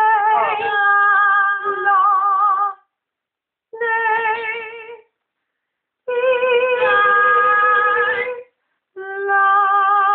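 Amazon parrot singing long held notes with a wobbling vibrato, in four phrases separated by short silences.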